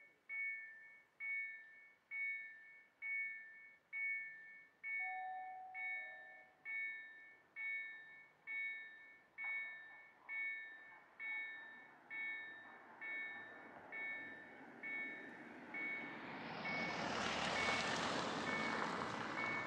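Level-crossing warning bell ringing in steady, evenly spaced two-tone strikes, a little under one a second. From about two-thirds of the way in, the rushing noise of an approaching train rises over it and is loudest near the end.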